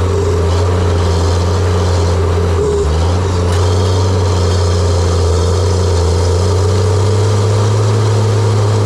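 John Deere 700J-II crawler dozer's diesel engine running steadily with a deep, continuous drone.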